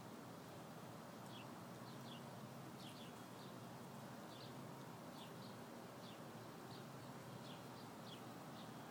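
Faint short, high bird chirps, often in pairs and sliding slightly downward, repeating irregularly about every half second over a steady outdoor hiss.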